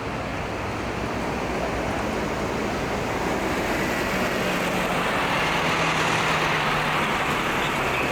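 Street traffic with a motor vehicle's engine passing close, growing louder to a peak a little past the middle and easing slightly near the end.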